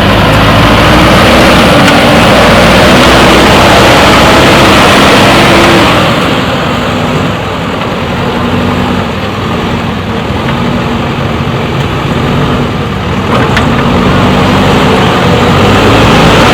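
Diesel engine of a JCB backhoe loader working hard, its pitch rising and falling as it revs under load. It is loudest for the first six seconds or so, then eases, and builds again near the end.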